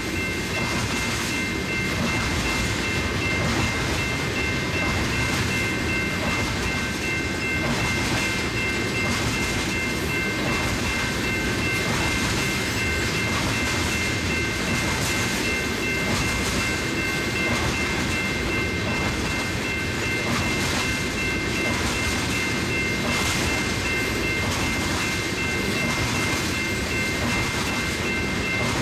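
Tank cars of a unit oil train rolling past steadily, their steel wheels rumbling on the rail with faint clicks. A steady high-pitched squeal of a few tones runs on top throughout.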